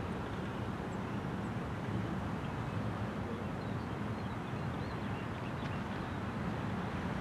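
Freight train of trash container cars rolling past at steady speed: a continuous low rumble of steel wheels on the rails.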